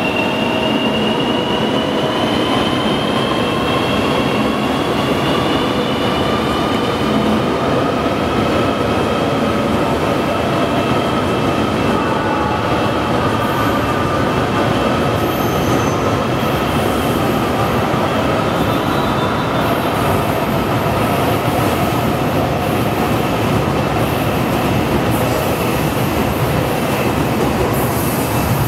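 High-speed electric train running slowly past: a steady rumble of wheels on rail, with a thin electric whine from the drive that slides gently down in pitch over the first several seconds.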